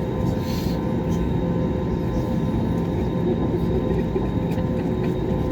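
Airbus A320neo jet engines running at steady high thrust on takeoff, heard from inside the passenger cabin as an even rush of noise with a few steady whining tones.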